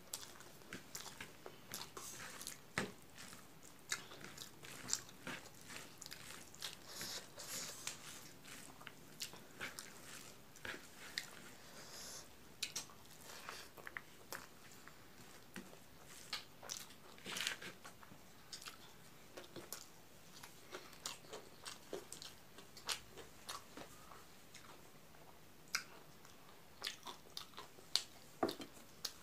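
Close-up eating sounds of rice with milk curry eaten by hand: wet chewing and mouth smacks in many short, irregular clicks.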